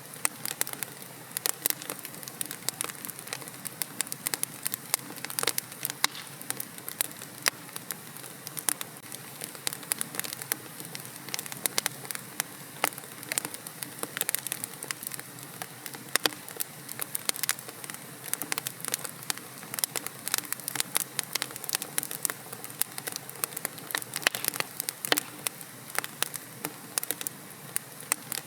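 Wood fire in a fireplace crackling steadily: a continuous soft hiss of burning dotted with many sharp pops and snaps.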